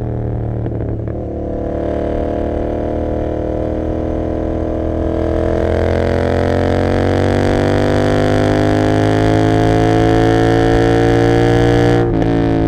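Royal Enfield Continental GT 650's parallel-twin engine through an Emgo cafe muffler with no dB killer, pulling under acceleration. The note breaks briefly about a second in, climbs steadily in revs for about ten seconds, then cuts and drops sharply near the end as the rider shifts up.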